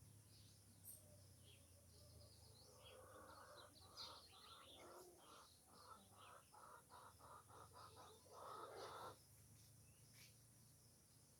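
Faint bird calls: scattered high chirps, and a run of harsh repeated notes that quicken and end in one longer note about three-quarters of the way in.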